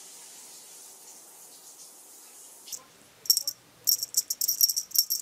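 Faint steady hiss, then from about three seconds in a dangled cat wand toy jingles in quick, irregular shakes with a bright, bell-like ring.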